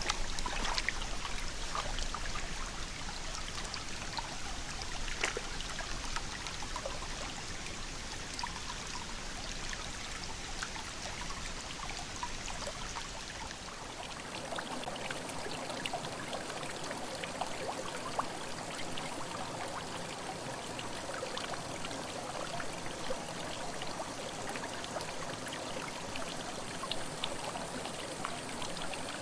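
Mountain headwater stream babbling and trickling over rocks, a steady rush of water. About halfway through the sound of the water changes, with less low rumble and more mid-range splashing.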